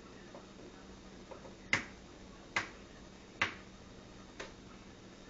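Four sharp taps about a second apart: an egg shell being knocked against a hard edge to crack it.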